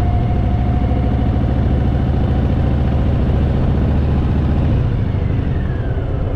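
Harley-Davidson Fat Boy's V-twin engine running steadily while riding, the pitch and level falling as it eases off about five seconds in.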